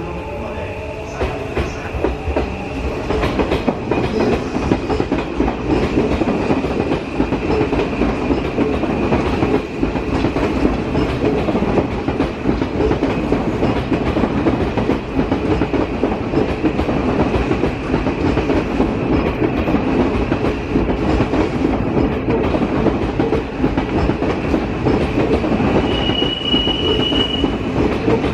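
Train running at a station: a steady rumble of rail cars with wheel-on-rail clatter and a thin, steady high squeal. It grows louder about a second in. A brief higher tone sounds near the end.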